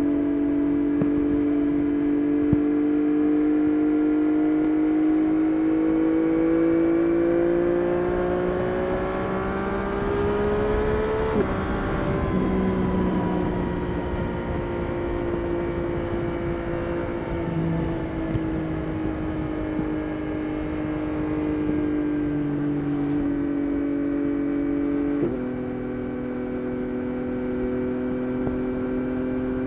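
Yamaha Tracer 9 GT+ CP3 three-cylinder engine through a Roadsitalia titanium exhaust, heard from the rider's seat. The revs climb steadily under acceleration, drop sharply at an upshift about 11 seconds in, sink slowly as the bike eases off, then step down again at a second upshift near the end and settle into a steady cruise.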